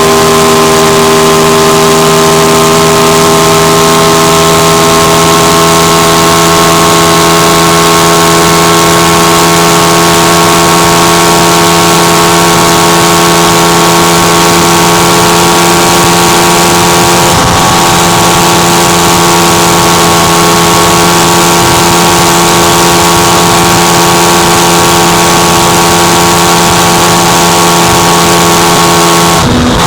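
Aprilia RS660 Extrema's 659 cc parallel-twin engine running hard at sustained high speed on a motorcycle, its pitch nearly steady and sagging slightly, over a loud rush of wind. The note breaks briefly about 17 seconds in and again just before the end, like a shift or a roll-off of the throttle.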